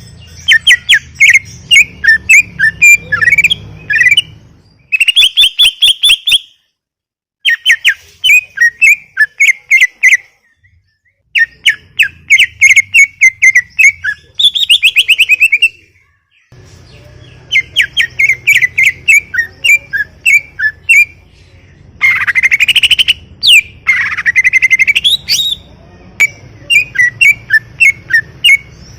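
Cucak ijo (green leafbird) singing hard: phrase after phrase of rapid, sharp chirps and trills with short pauses between, some phrases ending in rising whistled sweeps.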